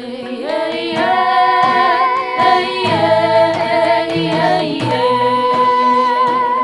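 Theme song with a female voice singing long held notes over backing music.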